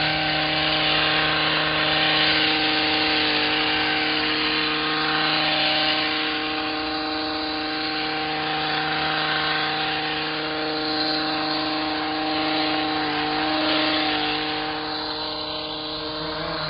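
Gas-powered hedge trimmer engine running steadily at high speed while cutting shrubs, its pitch holding almost constant and its loudness swelling and easing a little.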